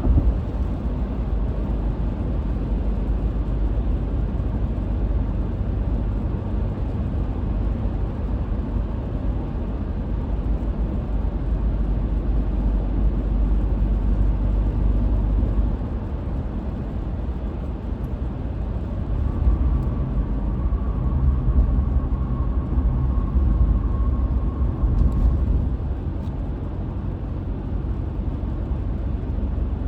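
Car driving along, a steady low rumble of road and engine noise, with a faint thin whine over it for a few seconds past the middle.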